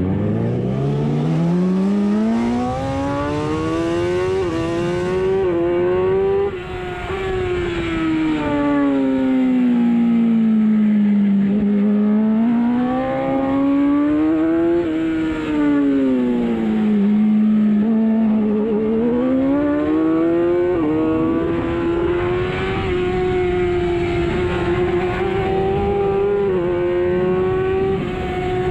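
Racing superbike engine heard onboard at full race pace. It accelerates hard from low revs through several quick upshifts, drops in pitch twice under braking and downshifts, then climbs again and holds high revs with brief shifts near the end.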